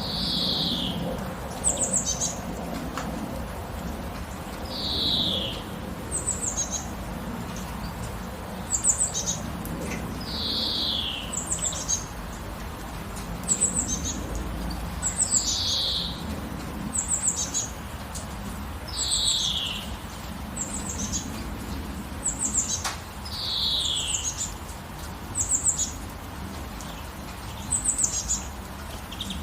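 Songbirds calling over and over: a longer whistled note that falls in pitch, every four to five seconds, and shorter high chirps that also fall, between them, over a steady hiss of light rain.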